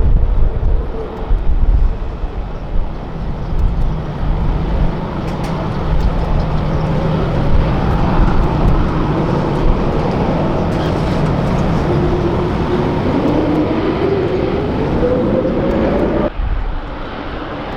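Jet airliner engines running loud at the airport, with a whine that rises steadily in pitch over a few seconds like engines spooling up, then cuts off abruptly near the end. Wind buffets the microphone in the first few seconds.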